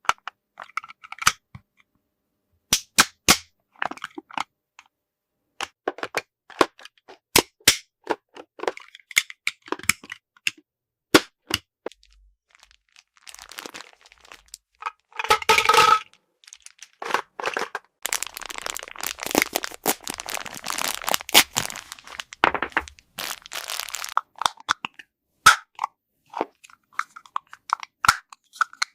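Small plastic toy pieces being handled: sharp clicks and taps at irregular intervals, a short pitched sound about halfway through, and several seconds of dense crinkling in the second half.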